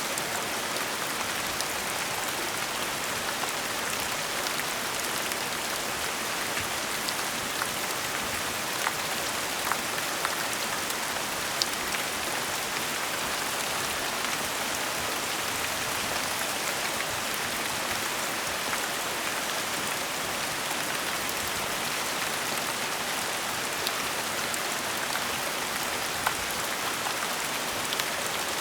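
Steady gentle rain, an even hiss with scattered sharper drips of individual drops.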